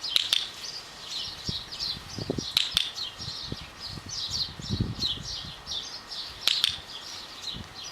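Small birds chirping in quick repeated phrases, with three sharp clicks spread through the stretch.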